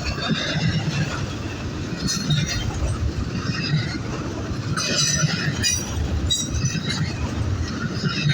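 Train cars rolling past with a steady low rumble of wheels on rail. High-pitched wheel squeal comes and goes several times, at about 2, 5 and 6.5 seconds in.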